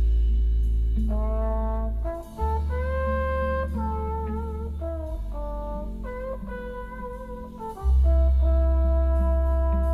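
Music playing through a Hyundai Staria's upgraded car audio system, heard in the cabin: a jazzy instrumental passage with a brass-like melody over long, deep bass notes.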